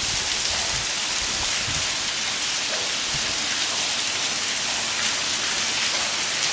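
Hailstorm: a dense, steady patter of hail and rain falling.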